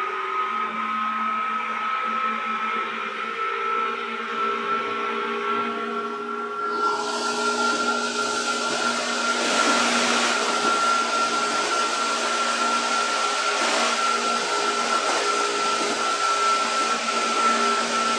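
Running noise heard inside a 205-series electric train: a steady hum with a high held whine over the rumble of wheels on rail. About seven seconds in the hiss of running noise grows louder and brighter and stays up.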